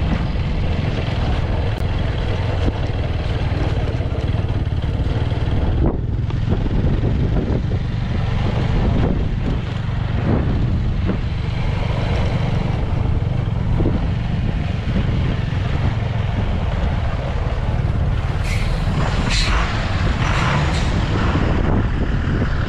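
A moving vehicle: steady low engine and road rumble with wind buffeting the microphone, and a few brief higher rattles or squeaks near the end.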